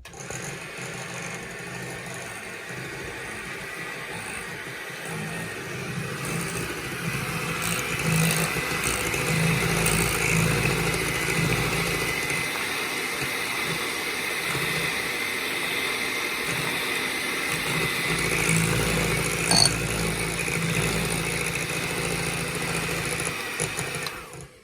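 Electric mixer running steadily as it beats crepe batter, starting suddenly and cutting off near the end, with a brief knock about twenty seconds in.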